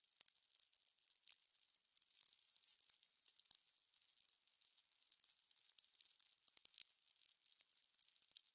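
Fire crackling: a steady run of small, irregular high-pitched pops and snaps, with a few sharper louder pops scattered through, the strongest cluster a little before the end.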